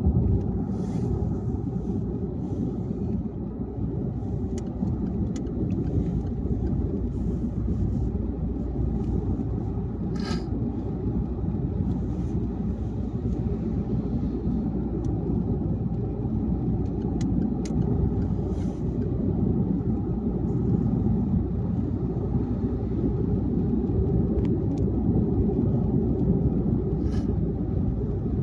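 Car driving at highway speed: a steady low rumble of engine and tyre road noise, with a few short faint clicks.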